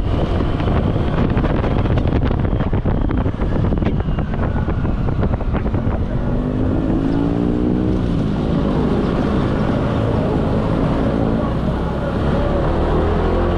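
A motor vehicle's engine under way, its pitch rising as it speeds up about six seconds in and again near the end, with heavy wind rumble on the microphone.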